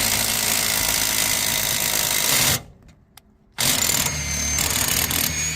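A power drill running to turn a scissor jack's screw, pressing down to break a tire's bead. It stops dead about two and a half seconds in, then starts again about a second later with a thin high whine over it.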